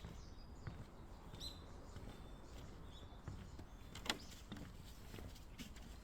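Footsteps of someone walking a trail, with a few short bird chirps in the first half and one sharp click, the loudest sound, a little after the middle.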